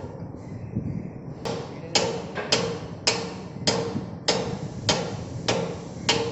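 A hammer striking metal in a steady rhythm: nine sharp blows starting about a second and a half in, roughly one every 0.6 seconds, each with a short metallic ring.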